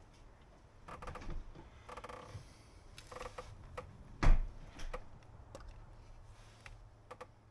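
Hands working parts out of a car's oil filter housing: a few short squeaks, then a sharp knock about four seconds in, followed by several light clicks.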